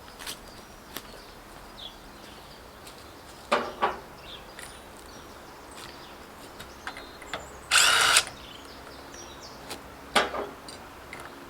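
Scattered metallic knocks and clicks of tools at work on a tractor's wheel nuts, with a louder pair about three and a half seconds in and another about ten seconds in. About eight seconds in comes one short, loud burst of a power tool lasting about half a second.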